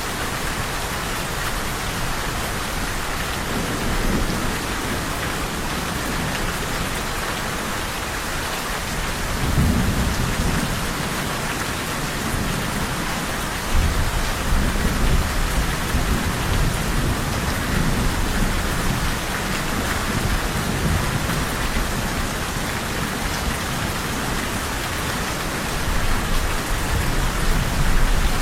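Steady heavy rain hissing, with rolling thunder rumbling low several times: a stronger roll about a third of the way in, a long stretch of rumbling from about halfway, and another near the end.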